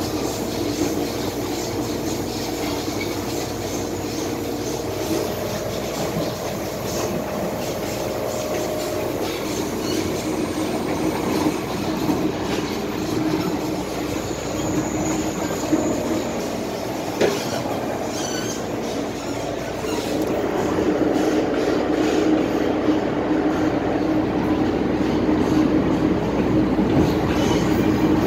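MTR M-Train electric multiple unit running along the track: a steady rumble of wheels on rail with a few held tones, getting louder about twenty seconds in.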